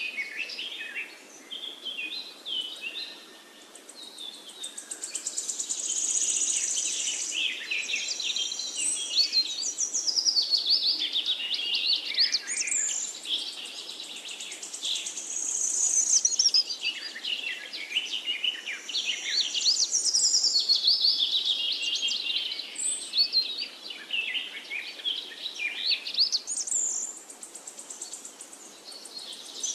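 Birdsong: many high chirps, trills and gliding whistles, swelling and fading in waves.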